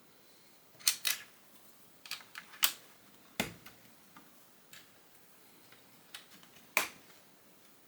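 Plastic Lego bricks clicking and tapping as they are handled and pressed together during building: a dozen or so sharp, irregular clicks, the loudest a little under a second in, a second pair near three seconds, and one near the end.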